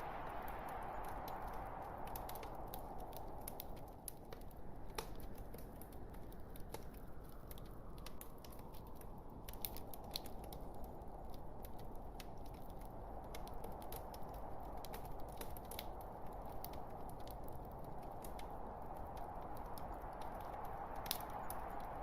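Log fire burning in a fireplace: a steady rushing hiss of flame with frequent sharp, irregular crackles and pops from the burning wood.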